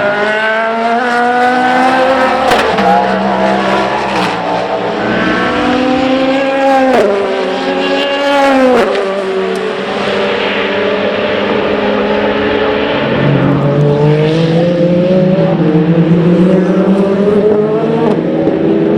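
Endurance race car engines accelerating past on a circuit. The pitch climbs, then drops sharply twice about seven and nine seconds in, and another car's engine pitch climbs steadily from about thirteen seconds on.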